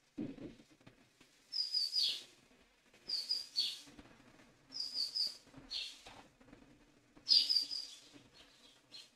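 A bird singing a short phrase of a few quick high notes that ends in a falling note, repeated about every second and a half. A dull knock sounds just after the start.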